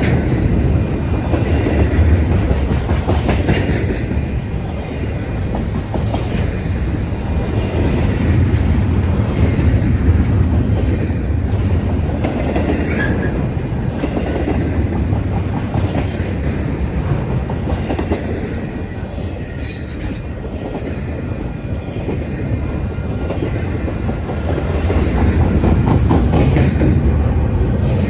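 Freight cars of a long Union Pacific intermodal train rolling past in a steady rumble with wheel clatter. Faint high wheel squeals come and go in the second half.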